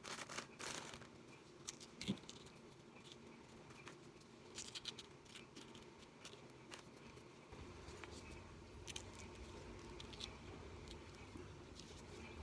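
Faint knife cuts and taps on a chopping board as capsicums and chillies are cut up: scattered clicks and knocks, the loudest about two seconds in. A low steady hum comes in about halfway through.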